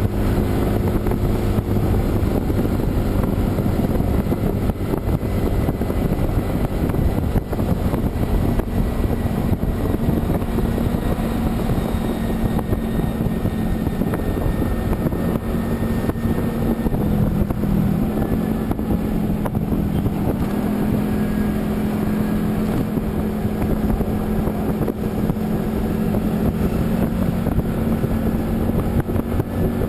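A vehicle engine drones steadily at cruising speed under heavy wind noise on the microphone. The engine note shifts slightly about halfway through.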